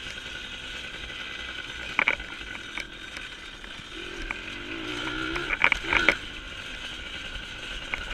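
Dirt bike engine running while riding a trail, its pitch wavering with the throttle a few seconds in. Sharp knocks about two seconds in and again near six seconds.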